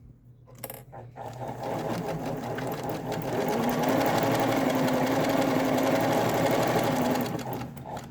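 Singer 247 domestic sewing machine running and stitching. After a couple of clicks, it speeds up over the first few seconds, runs steadily, and stops shortly before the end. This is a test seam after its hook and bobbin case were cleaned of lint and oiled.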